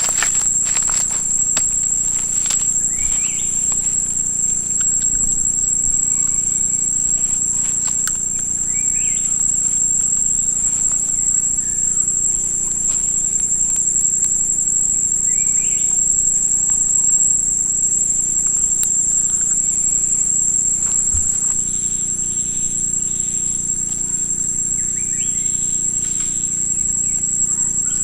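Steady high-pitched chorus of insects, with short bird chirps every few seconds and a few clicks in the first couple of seconds.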